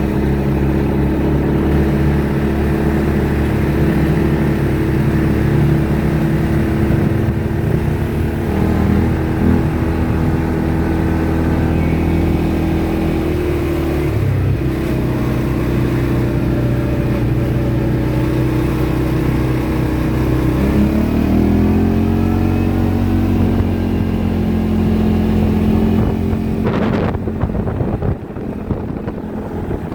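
ATV engine running steadily under way. Its pitch dips briefly about halfway through, then drops and climbs back up again as the throttle changes. A sharp knock comes near the end, and after it the engine sound is quieter.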